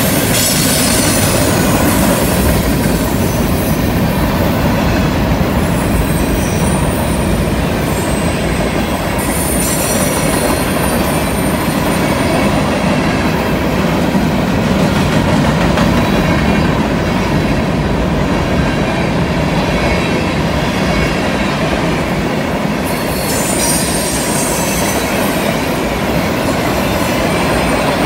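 Freight train of tank cars and covered hoppers rolling past on a curve: a steady, heavy rumble of steel wheels on rail. Thin, high wheel squeal from the curve comes and goes.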